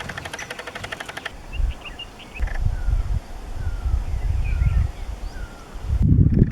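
Small birds calling in the wild: a series of short, falling whistled notes and a few higher chirps, over a strong low rumble. Before these, in the first second or so, a rapid pulsing buzz of about ten pulses a second.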